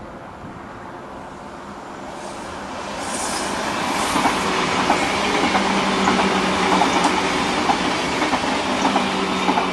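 Red electric multiple-unit S-Bahn train passing on the far track. The rush of wheels on rail builds over the first few seconds, then holds, with a steady hum and many sharp wheel clicks as it runs by.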